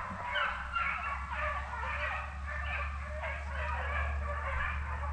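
A pack of deer hounds baying in full cry on a chase, many voices overlapping continuously.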